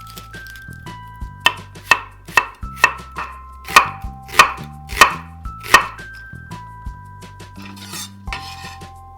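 Knife chopping on a cutting board: about nine sharp strokes, roughly two a second, then a short rustling noise near the end.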